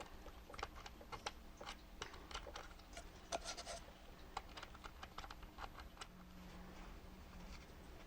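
Faint, irregular small clicks and scratches of hands working on the small plastic parts and switch of an Omnibot 2000's gear-switching mechanism. About six seconds in the clicking stops and a faint low hum runs for a second or so.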